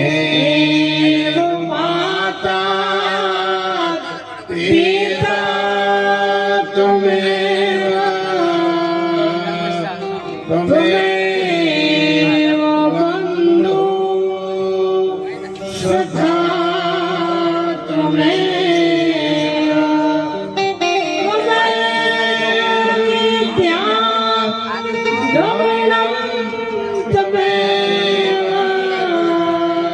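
Indian devotional music: a voice singing long held notes that slide in pitch over a steady instrumental drone.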